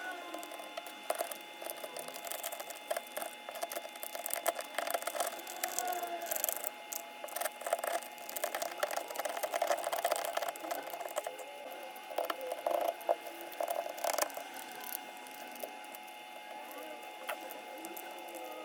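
iPhone 11 back glass being crunched and scraped off the phone: irregular crackling and clicking of breaking glass over a steady hum.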